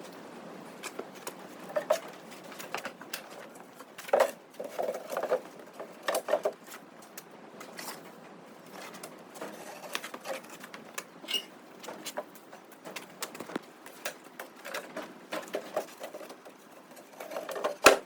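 Irregular light knocks and clicks, scattered unevenly, with one sharp click near the end.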